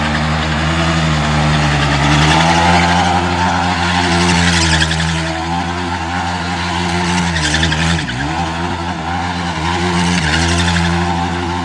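Yamaha YFZ450 quad's single-cylinder four-stroke engine held on the rev limiter during a burnout, its pitch nearly constant, with rear tyres spinning. About eight seconds in the revs dip briefly, then climb back to the limiter.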